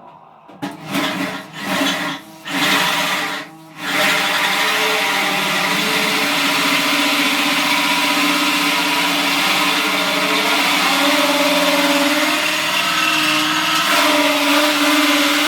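Electric drill running a hole saw into steel: a few short bursts of the drill, then a long steady run with a constant whine about four seconds in.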